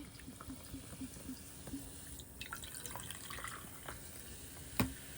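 Faint trickling and dripping of liquid with small scattered clicks, and one sharp click a little before the end.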